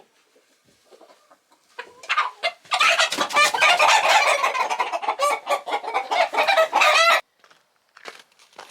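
Chickens clucking and squawking loudly for about four and a half seconds, then cutting off suddenly.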